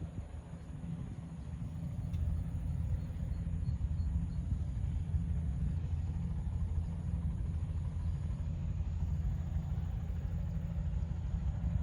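Crop-spraying helicopter's rotor and engine, a steady low rumble that grows louder over the first few seconds and then holds steady.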